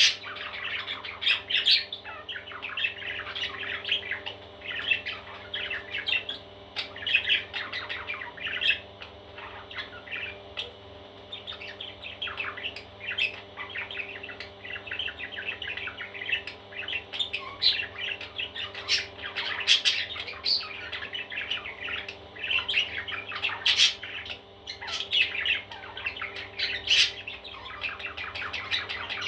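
Baby parrots chirping and squawking in a dense, continuous chatter of many overlapping short calls, with a few sharper, louder squawks.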